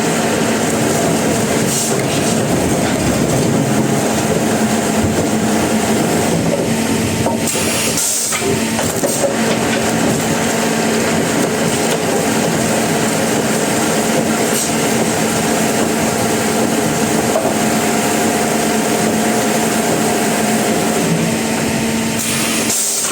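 Sawmill machinery running steadily, a dense continuous mechanical noise with a constant low hum.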